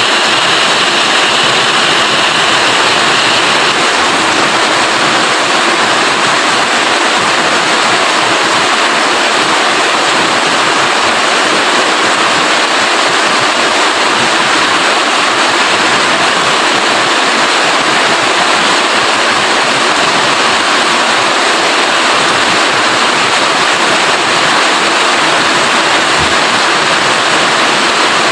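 Steady, heavy rainfall, an even hiss of water with no breaks.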